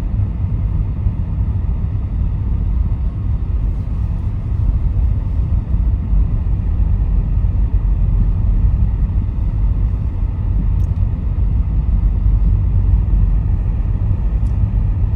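A car driving at steady speed: a continuous low road and engine rumble, with a couple of faint ticks near the end.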